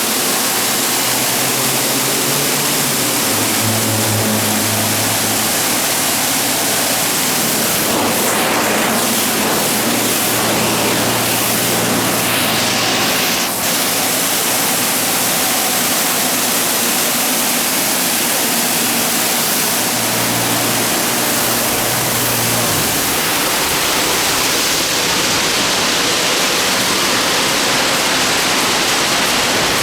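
BayWash i5 soft-touch in-bay car wash running over a car: a steady rush of spraying water, with a low machine hum that rises and drops away several times.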